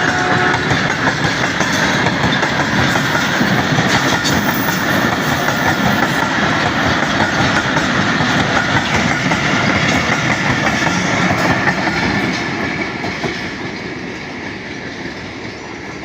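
Karachi Express passenger train running through the station at speed, its coach wheels clattering over the rail joints in a steady rush. The noise falls away after about twelve seconds as the train draws off.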